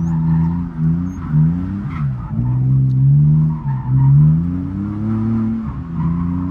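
Drift car's engine revving hard, its note climbing and then dropping sharply several times as the driver works the throttle through a slide, with tyres squealing.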